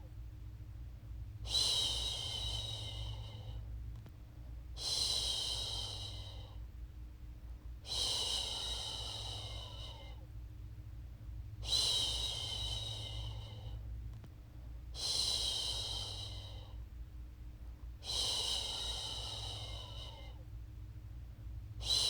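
A woman shushing a baby, making long "shhh" sounds of about two seconds each, repeated roughly every three seconds, with a softer breathy sound between them.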